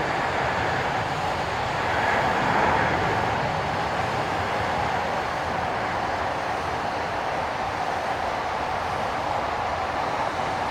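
Jet airliner engines giving a steady rushing roar, swelling slightly a couple of seconds in.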